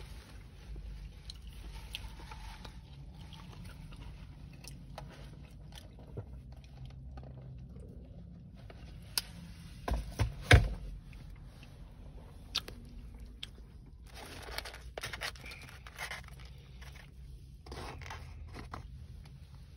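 Eating fried chicken: crunching and chewing with scattered small clicks, and scraping and rustling from handling a foam takeout box. A cluster of sharp knocks comes about ten seconds in.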